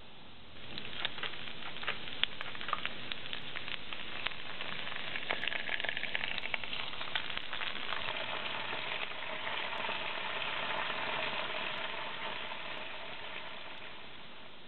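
Green beans frying in hot oil in a pan. The sizzle starts about half a second in, crackling with sharp pops for the first several seconds, then settles into a steady sizzle that fades away near the end.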